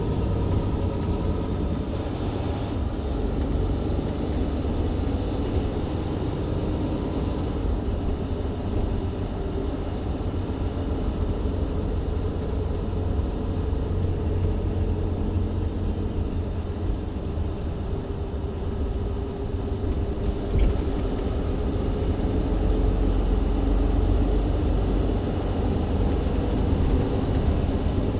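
Mercedes-Benz Citaro C2 LE hybrid bus heard from inside while driving: a steady diesel engine and drivetrain rumble with road noise. A single short knock comes about twenty seconds in.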